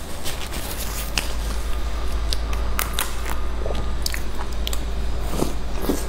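Close-up eating sounds of crunchy snacks being bitten and chewed: irregular crisp crackles and clicks, over a steady low hum.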